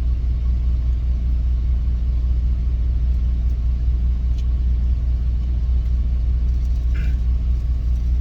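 Steady low engine rumble of a semi truck idling, heard from inside the cab.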